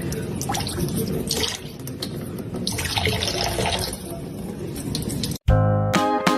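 Running, splashing water for about five seconds, then music with struck or plucked notes cuts in near the end.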